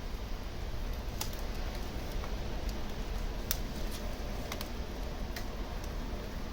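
Wood fire burning in a fireplace, crackling with sharp pops about once a second over a low steady rumble.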